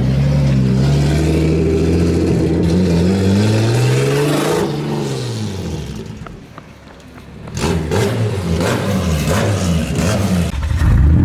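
Car engine revving, its pitch climbing and falling repeatedly, easing off to a quieter patch a little past halfway before revving hard again.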